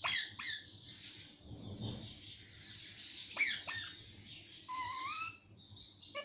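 Pet parrot calling: sharp squawks at the start and again about three and a half seconds in, a stretch of raspy chatter, and a wavering whistle near the end.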